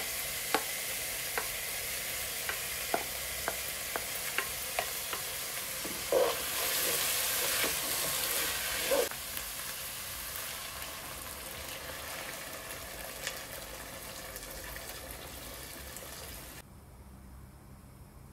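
Food sizzling in a frying pan while it is stirred, with a utensil clicking against the pan many times in the first half. The sizzle swells for a few seconds around the middle, then fades and drops off suddenly near the end.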